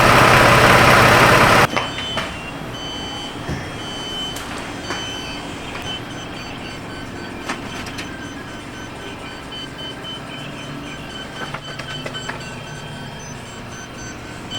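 Van engine running for about the first second and a half. Then the steady beeping of a Robinair LD5 electronic refrigerant leak detector held over the new rear A/C line fittings. The beeping stays even and does not speed into an alarm: no refrigerant leak found.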